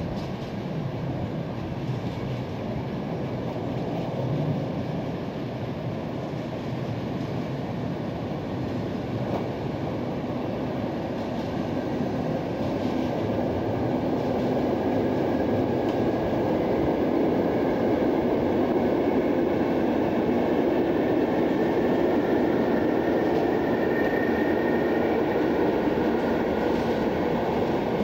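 Train of double-deck car-carrier wagons rolling past, its wheel and rail noise growing louder over the first half and then holding steady as the wagons go by. A faint high wheel squeal joins in during the second half.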